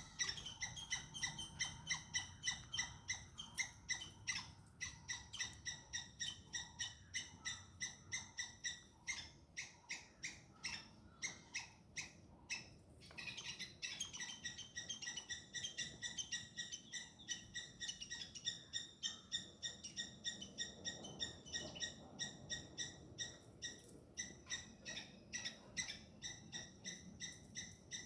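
Squirrel alarm calls: short, sharp, high chirps repeated about three times a second without letup. This is the scolding call squirrels give at a cat.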